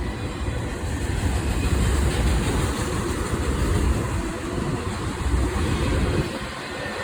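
Freight train of autorack cars rolling past, a steady low rumble of wheels on rail.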